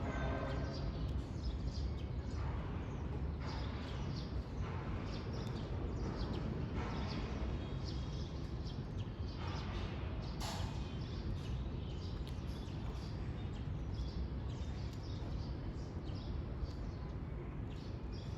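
Wild birds chirping on and off, short scattered calls over a steady low rumble, with one brief sharp noise about ten seconds in.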